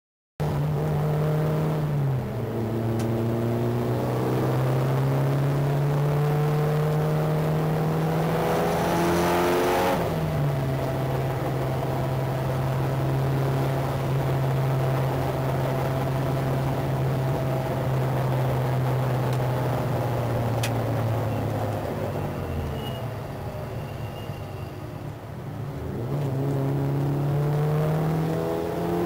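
Mitsubishi Lancer Evo VI's turbocharged four-cylinder engine driven hard on track, heard from outside at the front wheel arch. Its pitch steps down at a gear change about two seconds in, climbs to another sudden drop around ten seconds, then holds steady for a long stretch. It falls away and quietens for a few seconds as the car slows, then climbs again near the end.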